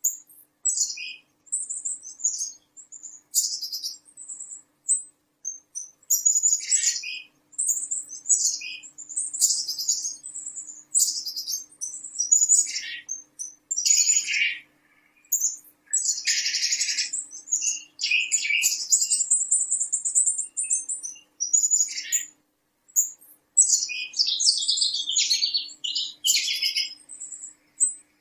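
Small birds chirping and twittering in rapid, high-pitched bursts, again and again with short pauses between.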